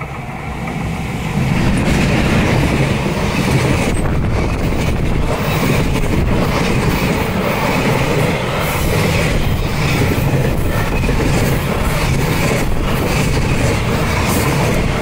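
JR Freight EF210 electric locomotive hauling a container freight train past at close range. It grows loud over the first second and a half as the locomotive arrives, then the container flatcars keep up a steady rumble of wheels on rail, with repeated clacks over the rail joints.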